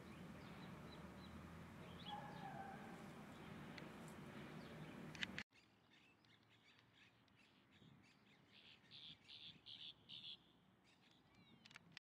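Wild birds calling over faint background noise. There is a short call about two seconds in. The background drops away suddenly about halfway, and after that comes a run of about eight harsh notes, about four a second.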